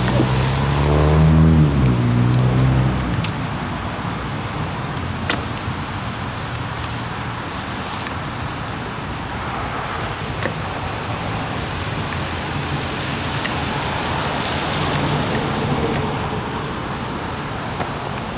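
A motor vehicle passes by in the first three seconds, its engine pitch falling as it goes. Then comes a steady hiss of rain and wet road noise, with a few sharp single clicks.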